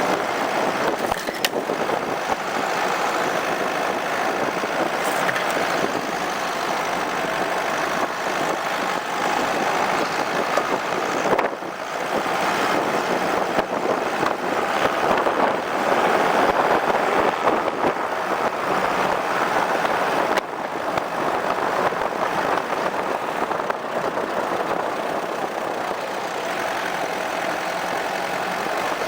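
Opel Monterey SUV driving over snow: steady engine and tyre noise mixed with wind, picked up by a camera mounted on the vehicle, with the level swelling and easing a little as it goes.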